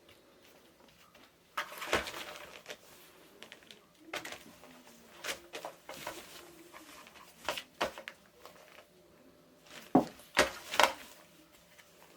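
Kittens playing with toys: irregular knocks, taps and rattling clatters in a small room, the loudest about two seconds in and a cluster near the end.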